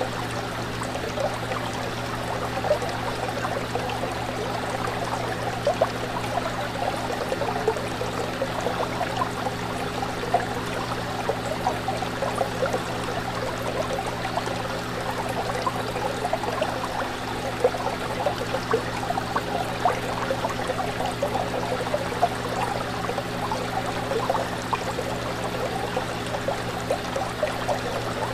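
Aquarium water bubbling and trickling steadily, with small irregular splashes, over a steady low hum.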